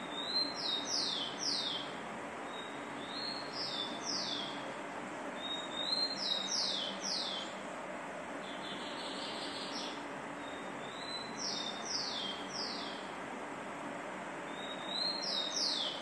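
A bird repeats the same short, high song phrase about every three seconds. Each phrase is a brief note followed by three or four quick notes that sweep downward, over a steady background hiss.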